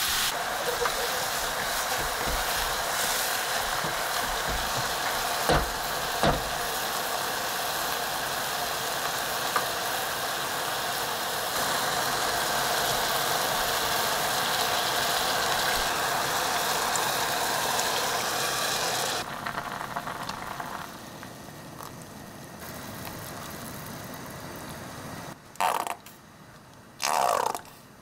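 Sliced button mushrooms and onion sizzling as they are sautéed in a pot and stirred with a silicone spatula, with a couple of light taps about five and six seconds in. The sizzling drops away about two-thirds through, and near the end liquid glugs out of a carton into the pot in a few short spurts.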